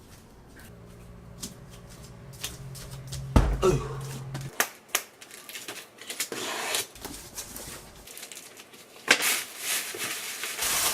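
Packaging and parts being handled during an unboxing: rustling, clicks and knocks, louder in the second half. A low steady hum stops about four and a half seconds in.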